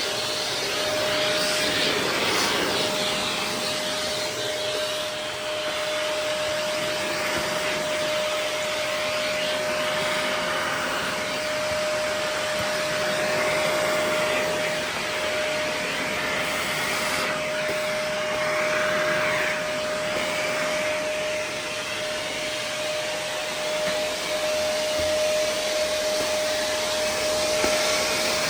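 Vacuum cleaner running steadily, sucking up dog hair: rushing air with a constant whine over it, the level swelling a little now and then.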